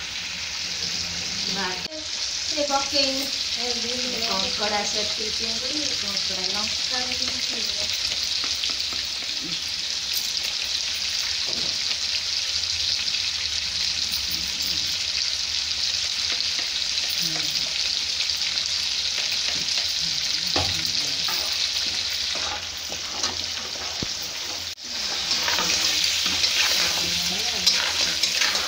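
Crab pieces sizzling steadily in hot oil in a black wok, with a metal spatula stirring and scraping the pan near the start and again over the last few seconds. The sizzle dips briefly, then comes back louder as the stirring resumes.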